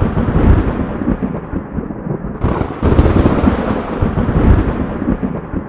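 Storm noise: a loud, deep rumbling wash of sound with a sudden surge about two and a half seconds in that slowly fades.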